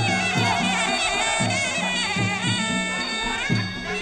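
Traditional Muay Thai fight music (sarama): a Thai pi oboe plays a wavering, bending melody over a steady beat of hand drums.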